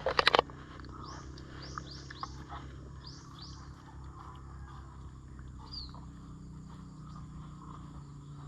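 Short high bird chirps in a few quick runs over a steady low background hum, with a brief clatter right at the start.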